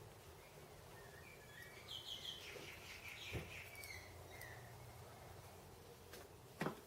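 Faint bird chirping: a quick run of repeated chirps and short calls over a low steady hum, with a soft knock in the middle and another near the end.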